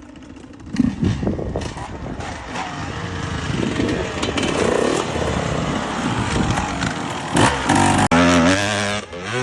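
Enduro motorcycle engine revving hard under load, the pitch rising and falling. It comes in about a second in and is loudest near the end, with a rising rev.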